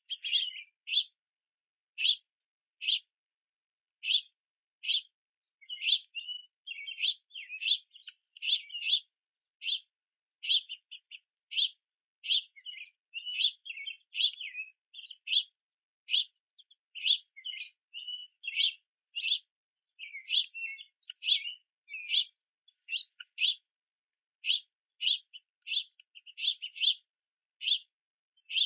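Juvenile house finches giving begging calls: short, high chirps repeated about once a second, often in pairs, with bouts of scratchier twittering in between.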